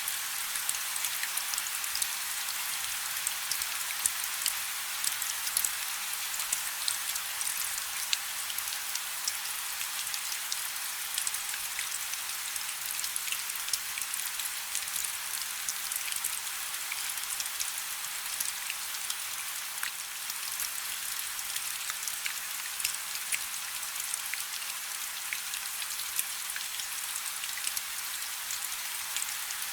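Light rain falling steadily: a continuous high hiss scattered with many small drop patters.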